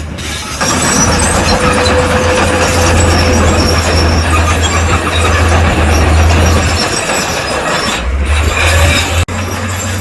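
Crawler bulldozer working: a loud, steady engine drone under dense mechanical noise from the machine and its steel tracks. The sound grows louder about half a second in and breaks off for an instant near the end.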